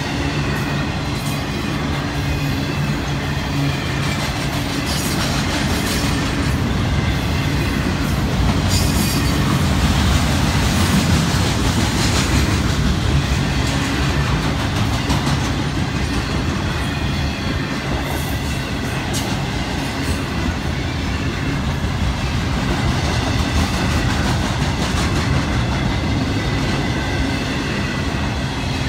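Intermodal freight train's container and trailer cars rolling past on the rails: a steady rumble of steel wheels on rail, with clicks as the wheels cross rail joints and a thin, high wheel squeal at times.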